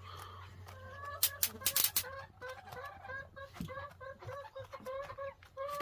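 A flock of 8-week-old meat chickens (broilers) clucking in short, repeated notes at an even pitch, many birds overlapping. A few sharp clicks come between one and two seconds in.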